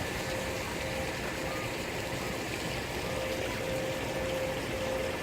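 Steady outdoor background hum of vehicle engines and traffic, with a faint steady tone that comes and goes.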